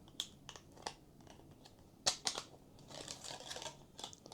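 3D-printed plastic parts handled and fitted together: a few light clicks, a sharper cluster of clicks about two seconds in, then scraping as the back plate slides into the split holding ring.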